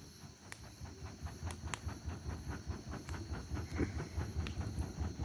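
Bonfire of damp firewood crackling with frequent small irregular pops over a low rumble. Insects chirp in a high, even pulse about twice a second.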